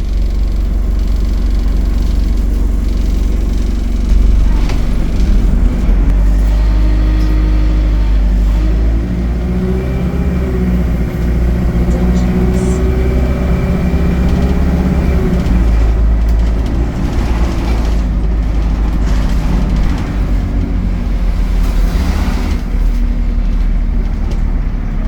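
ADL Enviro 200 single-deck bus with an Allison automatic gearbox running under a steady low rumble. The engine note climbs as the bus pulls away, holds for several seconds, then drops back.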